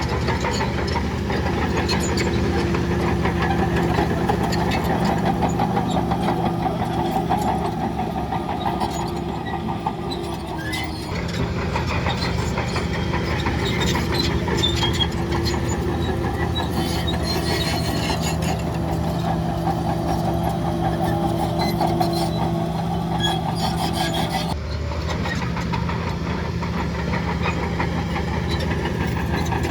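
Heavy diesel engine of earthmoving machinery running steadily under work, with frequent light clanks over it. The engine note shifts about 11 seconds in and again near 25 seconds.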